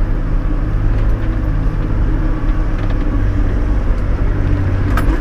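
Toyota LandCruiser 105 Series engine running with a steady low drone, heard from inside the cabin. A sharp click about five seconds in.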